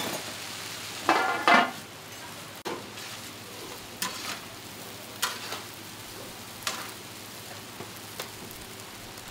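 Diced tofu sizzling in oil in a large wok while a steel scraper scoops it against the wok and into a stainless-steel tray. There is a loud run of metal scrapes about a second in, then single sharp clinks every second or so over the steady sizzle.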